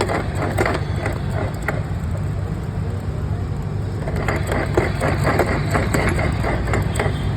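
Aprilia scooter running, with loud noise from its gearbox: a steady low engine hum overlaid by irregular clicking and clattering. The noise comes from a broken bearing in the clutch cover, shattered by oil mixed with water in the gearbox.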